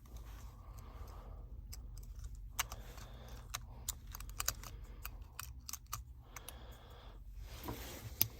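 Irregular light clicks and taps of a smartphone's logic board and small parts being handled and set into its frame, over a steady low hum.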